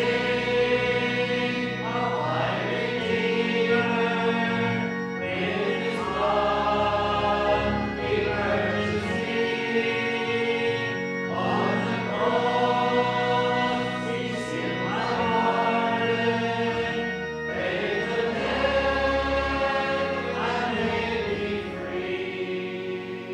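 A hymn sung by many voices with instrumental backing, in long held phrases that die away at the end of the last line.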